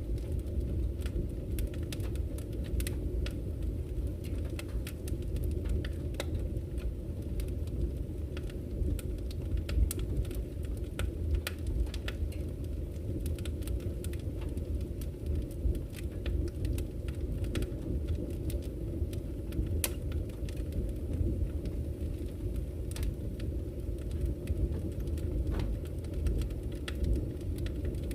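Campfire crackling, with many small sharp pops and snaps at irregular intervals, over the steady low sound of flowing river water.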